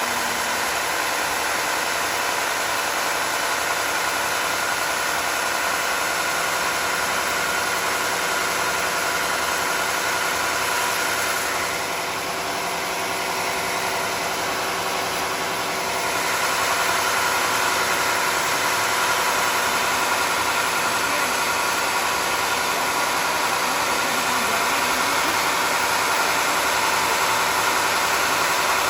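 Homemade sawmill's engine-driven saw running steadily with a continuous hum and hiss. It drops a little about twelve seconds in and comes back slightly louder about four seconds later.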